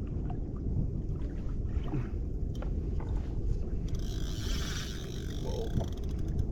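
Wind buffeting the microphone with water noise around a fishing kayak, plus a few faint clicks and a short hiss about four seconds in.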